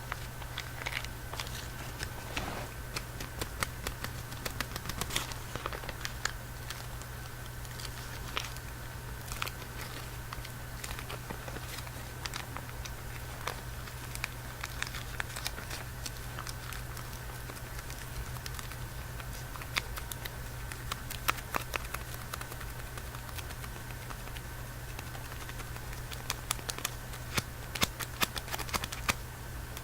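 Candy wrapper being handled: scattered small crinkles and clicks, busiest in two spells about two-thirds of the way in and near the end, over a steady background hum.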